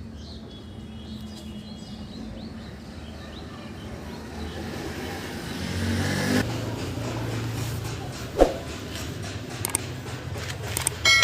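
Road traffic: a motor vehicle's low engine rumble swells about halfway through and stays, with a single sharp knock a couple of seconds later and a few light clicks near the end.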